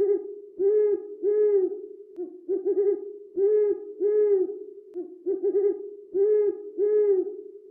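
A bird's hooting call, repeated in three phrases. Each phrase is one or two short notes followed by two longer, even hoots at a steady pitch.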